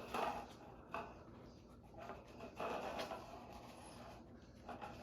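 Cups being nudged and tipped by a dog searching for a hidden treat: a few soft, irregular scrapes and knocks of the cups on a surface.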